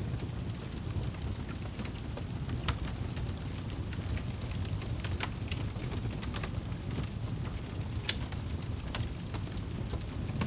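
Wood fire crackling: a steady low rumble of flames with scattered sharp pops and snaps from the burning logs, two louder pops about a third of the way in and near the end.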